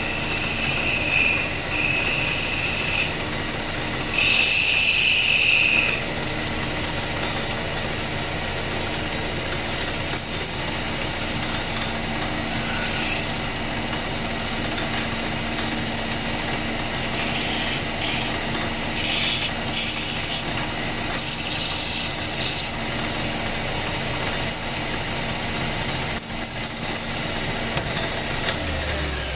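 Small electric motor running steadily, with short hissing stretches from time to time and a few sharp clicks near the end.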